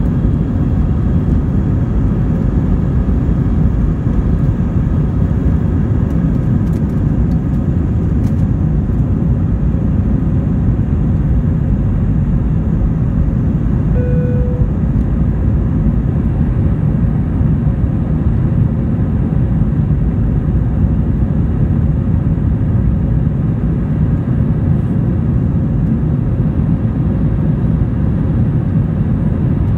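Steady low rumble of airliner cabin noise, jet engines and rushing air heard from a passenger seat, holding an even level throughout. A brief tone sounds once about halfway through.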